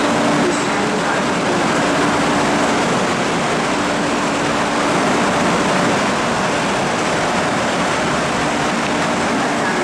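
An MTR SP1900 electric multiple unit approaching along the station platform, running with a steady noise. A low steady hum fades about two and a half seconds in and returns near the end.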